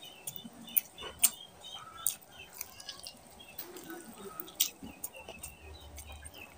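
Close-up chewing and wet lip smacking of a person eating mutton curry and rice by hand, with several sharp mouth clicks and short squelching sounds.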